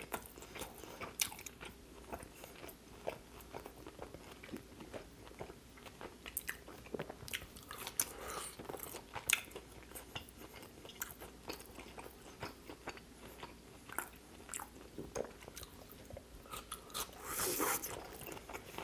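Close-miked chewing of pan-fried steak eaten by hand: a steady run of small wet mouth clicks and smacks, with a denser, louder stretch near the end.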